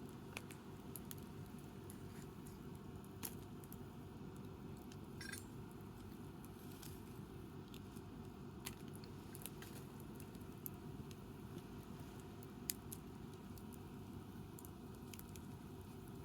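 Wood campfire crackling: scattered sharp pops and ticks over a steady low background noise, with one louder pop about three quarters of the way through.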